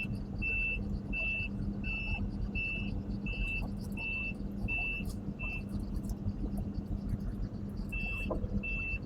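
Case CX220 excavator's travel alarm beeping evenly, about one and a half beeps a second, as the machine tracks, over the steady run of its diesel engine. The beeping stops for a couple of seconds about five and a half seconds in, then starts again near the end.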